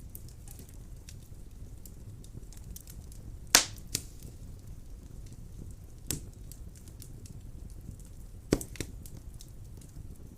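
Wood fire burning in a fireplace: a steady low rush of flame with scattered small crackles and a few sharp pops, the loudest about a third of the way in and two more close together near the end.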